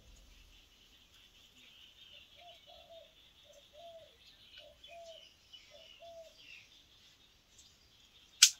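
A bird calls about half a dozen times, a short rising-and-falling note repeated less than a second apart, over a faint steady hiss. Near the end comes a single sharp crack, the loudest sound.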